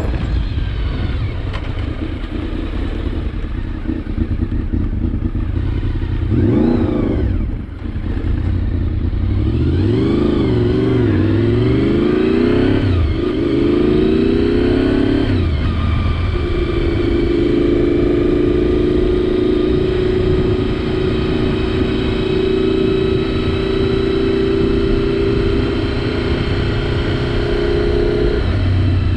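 Honda VFR750's V4 engine heard from a helmet camera while riding: the engine speed rises and falls several times in the first half, as through gear changes, then holds steady at cruising speed, over a constant low rush of wind and road noise.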